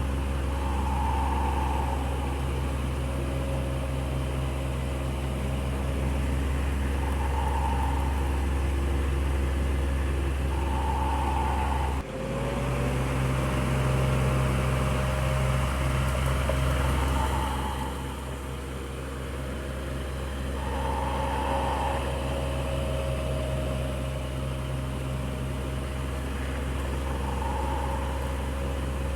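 Electric fan running steadily: a low motor hum with a whir of air over it and a soft swell every few seconds. About twelve seconds in the sound breaks for a moment and the hum's pitch shifts slightly.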